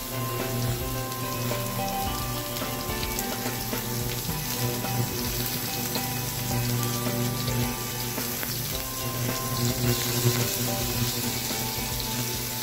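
Spice-paste-coated chicken pieces sizzling as they fry in a nonstick wok, a steady hiss throughout, over soft background music.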